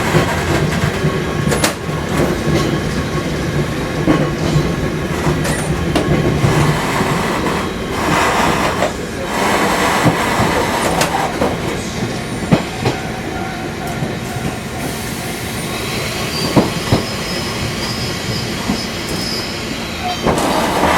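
Fukui Railway 200-series railcar running, heard from inside the car: a steady rumble of motors and wheels with scattered clicks over rail joints. A thin, high wheel squeal sets in after about fifteen seconds and fades near the end.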